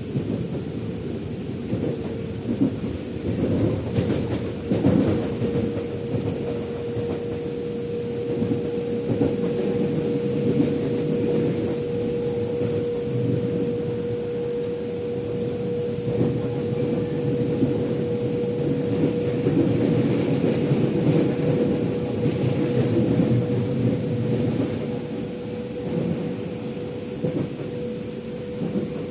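Metro train running between stations, heard from inside the carriage: a steady low rumble with a constant motor whine and occasional wheel-on-rail clacks.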